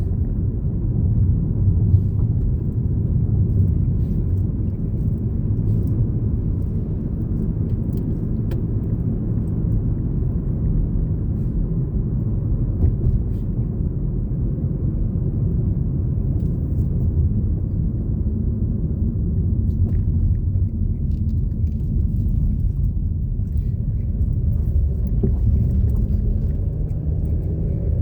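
Steady low rumble of a vehicle being driven, road and engine noise heard from inside the cab.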